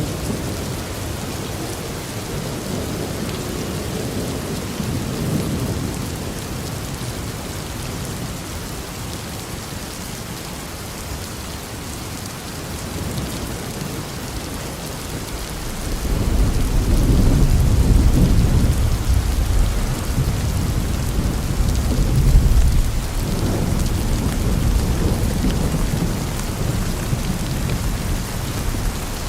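Steady rain with rolling thunder: low rumbles swell and fade, and a longer, louder rumble builds a little past halfway and lasts several seconds.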